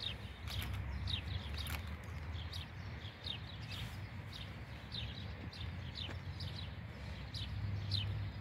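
Small birds chirping over and over, short falling chirps at about two to three a second, over a low steady rumble.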